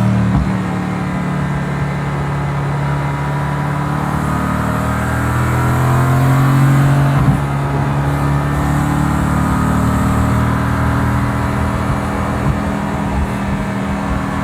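Mercedes-AMG GT S's twin-turbo V8 pulling under acceleration, its pitch rising over the first several seconds, then a sharp crack about seven seconds in, after which the engine runs more steadily.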